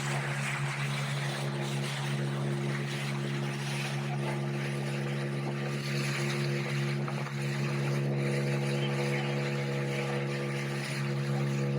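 Speedboat's outboard engine running at a steady cruise, a constant drone with water rushing along the hull.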